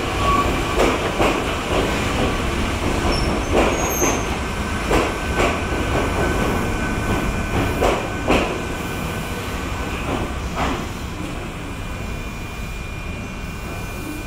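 Ohmi Railway electric multiple-unit cars rolling slowly past, their wheels clacking irregularly over rail joints and points, with a faint steady high-pitched wheel squeal. The clacks stop about two-thirds of the way through and the rolling sound fades a little.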